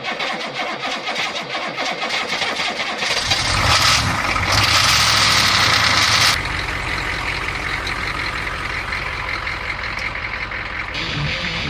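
GM 6.2-litre diesel V8 of a K5 Blazer cranking over on a very cold start, catching about three seconds in, running loud and fast for a few seconds, then settling to a steady idle.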